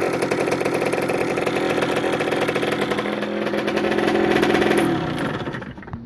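Rieju RR 50cc two-stroke engine running through a Technigas Enox aftermarket exhaust. The revs lift a little, then fall away and the engine dies down near the end.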